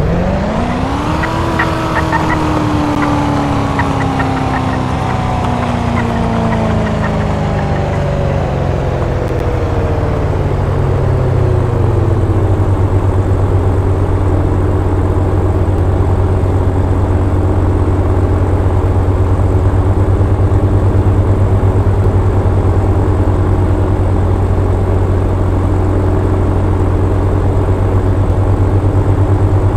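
A drift car's engine briefly revs up, then its revs fall slowly for about twelve seconds and settle into a steady, low idle.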